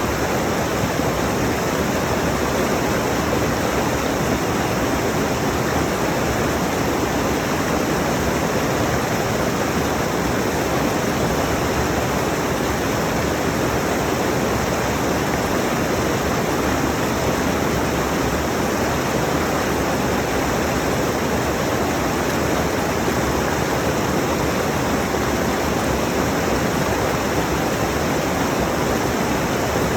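Rushing mountain stream: a steady, even rush of water over rocks, close to the microphone.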